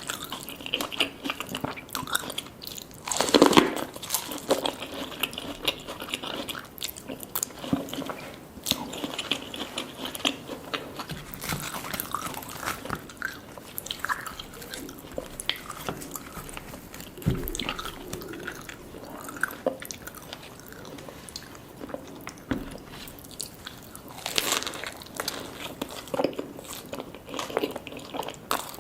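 Close-miked eating of a Cajun chicken tortilla and sweet corn: repeated biting and chewing with wet clicks and smacks. There is a louder crunchy bite about three seconds in and another near the end.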